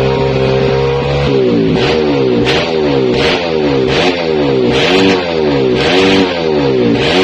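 Kawasaki KLX150's single-cylinder four-stroke engine breathing through a GP7 Neo Ballistic CNC aftermarket exhaust, idling steadily and then, about a second in, revved in a run of quick throttle blips, the revs rising and falling again and again.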